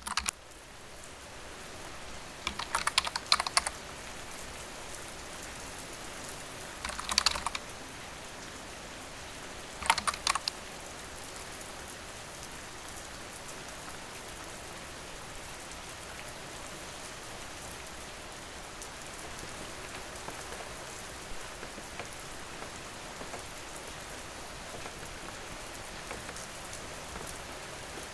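Steady rain ambience, with three short bursts of rapid clicking or tapping in the first ten seconds or so.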